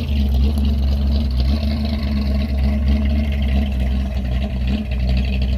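Car engine idling steadily, loud and low-pitched.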